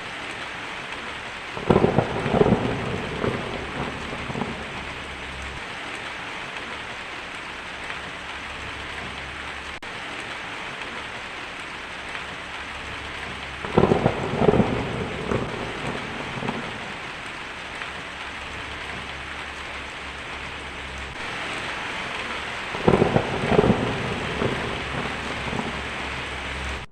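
Steady rain falling, with three claps of thunder about ten seconds apart, each rumbling on for a couple of seconds. The rain grows a little heavier near the end.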